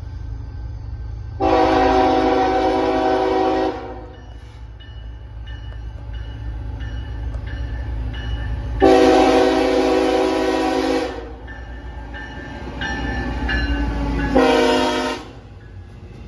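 Diesel locomotive horn sounding three blasts, long, long, then short, over the steady low rumble of a passing train.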